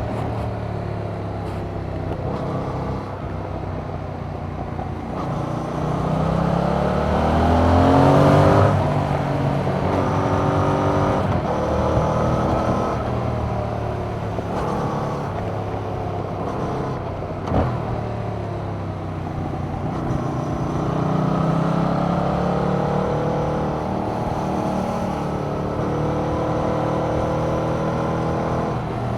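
2021 Yamaha MT-07's 689 cc parallel-twin engine through its stock exhaust, accelerating and easing off under riding. The revs climb hard to a peak about a third of the way in, drop away, then rise and fall again more gently, with a single sharp click about two-thirds through.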